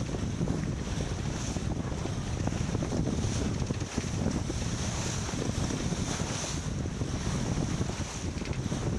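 Wind buffeting the microphone aboard a racing sailboat under way, over the steady rush of water along the hull.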